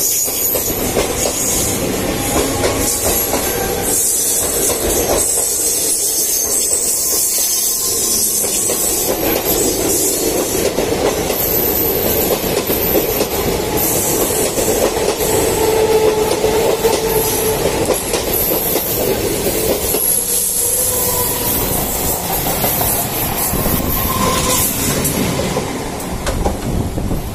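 Express train coaches rolling past close by on the next track, their wheels clattering over rail joints, with high wheel squeal at times.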